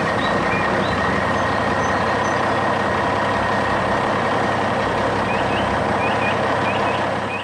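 A heavy vehicle or construction machine engine running steadily and loudly, cutting off abruptly at the end.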